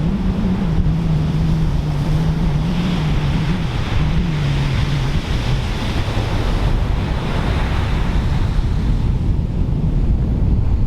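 Pacific Ocean surf breaking, with wind buffeting the microphone. A low drone sinks slowly in pitch and fades out about halfway through.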